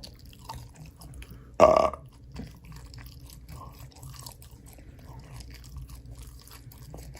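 Close-miked chewing with small wet clicks throughout, and one short, loud burp about a second and a half in.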